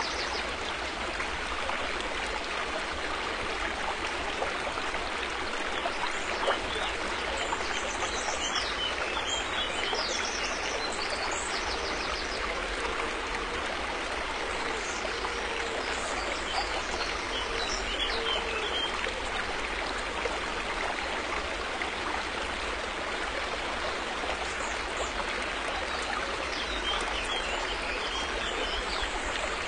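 River water flowing over stones in a steady, even rush, with a few faint high chirps above it now and then.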